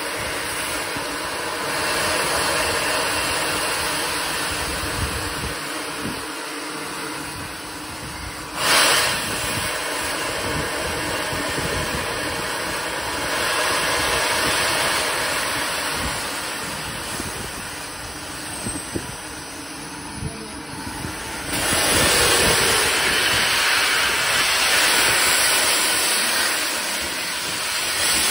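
Pannier tank steam locomotive hissing steam steadily, with one sudden loud burst about nine seconds in. The hiss grows louder again a few seconds before the end.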